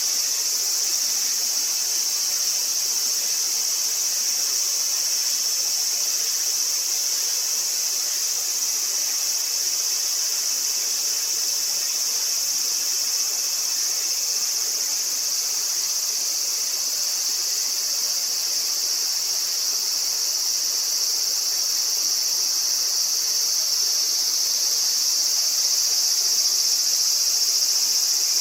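Steady chorus of insects giving a continuous high-pitched buzzing trill that never breaks, growing slightly louder near the end.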